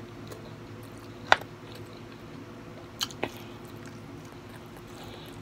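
Close-up eating sounds: soft chewing of pork, broccoli and noodles, with one sharp click about a second in and two quicker clicks near the middle.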